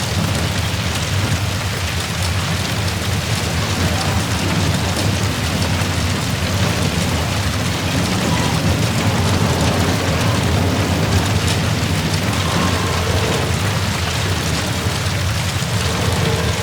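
Large fire from a jet crash, roaring: a steady low rumble with continuous crackling throughout.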